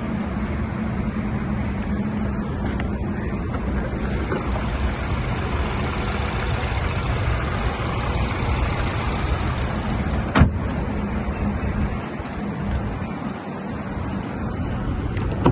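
Car engine idling steadily, with one sharp click about ten seconds in; the low hum eases off near the end.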